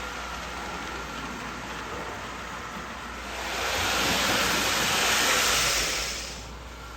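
Marx 999 toy steam locomotive pulling its freight cars around the track: a steady whir of motor and wheels that grows clearly louder from about three and a half seconds in as the train passes close, then falls back near the end.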